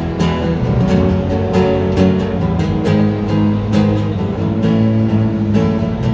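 Live guitar music: strummed acoustic guitar chords with sustained accompanying notes, an instrumental passage with no singing.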